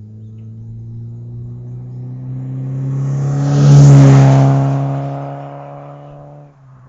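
1999 Nissan Sentra SE-L with a new aftermarket exhaust driving past at a fairly steady engine speed: the exhaust note builds, is loudest about four seconds in, then fades away.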